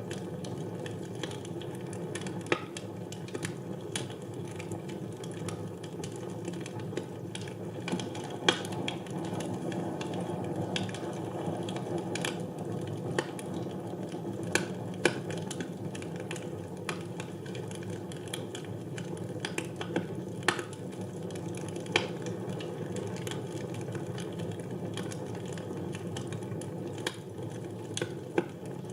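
Fire burning in a fireplace: a steady low rush of flame with frequent, irregular sharp crackles and pops.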